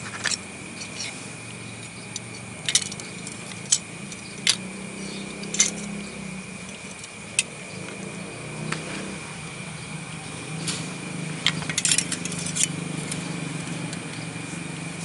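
Sharp metal clicks and taps, about a dozen scattered through, with a quick cluster of them a little before the end, as a kitchen knife is set into the clamp of a Lansky-style sharpening jig. A steady low hum and a thin high tone run underneath.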